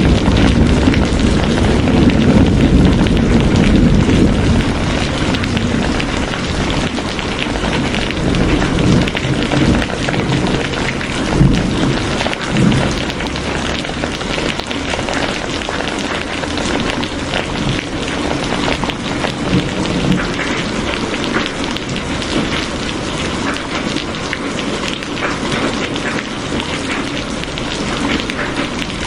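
Steady rain falling in a dense patter. A low rumble sits under it for the first few seconds and then eases off.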